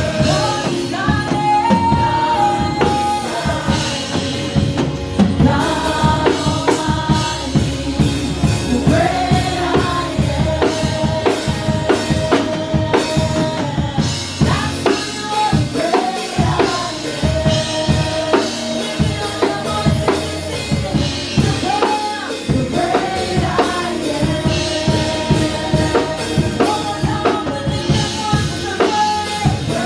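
Worship band music with a steady, driving drum-kit beat of bass drum and snare under a held, sliding melody line.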